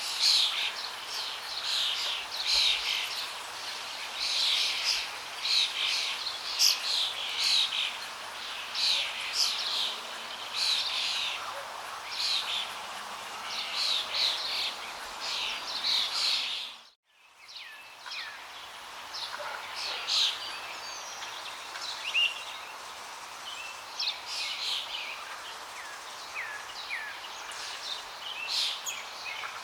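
Many songbirds chirping and singing over a steady rush of flowing water. The chirping is dense at first. A little past halfway the sound cuts out for under a second, then returns with sparser calls.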